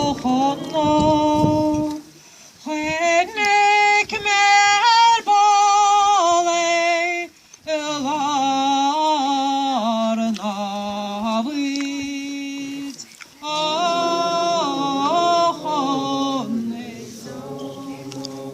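A woman singing solo and unaccompanied: slow sung phrases with held and sliding notes, broken by short pauses for breath, fading away near the end.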